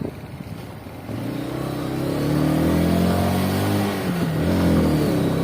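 Victory MRX 150 motorcycle engine accelerating from about a second in, its pitch rising, dropping briefly near four seconds, then climbing again.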